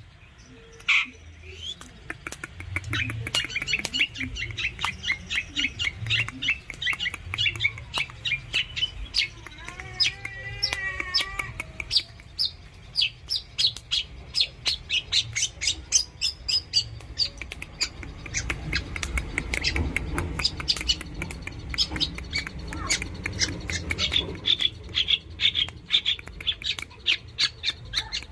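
Long-tailed shrike (cendet) singing at length: fast runs of sharp, chattering notes, with a brief warbling phrase about ten seconds in.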